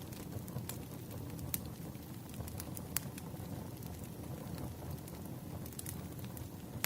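Wood fire crackling: irregular sharp pops and snaps over a low steady rumble, two pops standing out about a second and a half and three seconds in.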